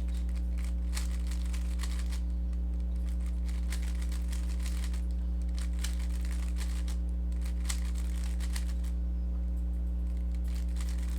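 Rubik's cube being turned, its plastic layers giving quick runs of faint clicks and scrapes as an OLL algorithm is executed. A steady low electrical hum runs underneath.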